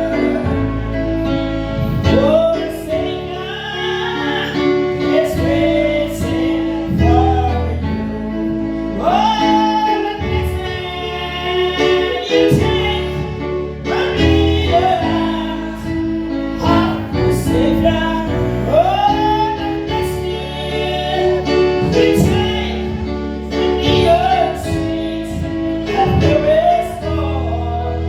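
Gospel music: a woman singing a slow melody with vibrato over sustained instrumental chords.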